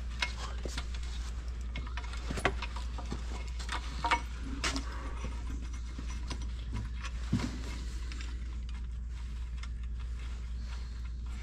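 Scattered metal clinks and clicks of hand tools working on bolts on a corn head, at irregular spacing, over a steady low hum.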